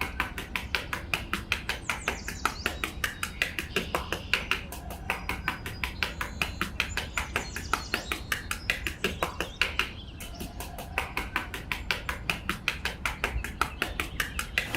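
Rapid, even tapping, about four or five sharp taps a second, pausing briefly about two-thirds of the way through, with birds chirping behind it.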